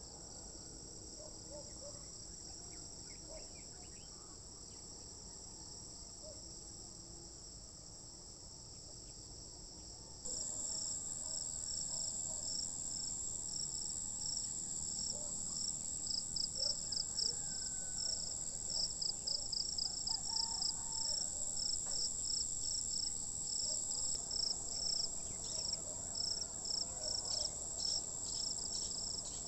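Insects, crickets or similar, trilling in chorus: a steady high-pitched buzz with a rapid pulsing chirp just below it. It jumps suddenly louder about ten seconds in. Faint scattered bird chirps sound underneath.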